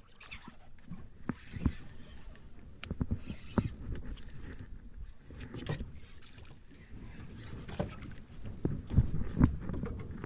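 Irregular knocks and thuds in a small boat, with a few short bursts of splashing or rustling noise, as fishing gear is handled.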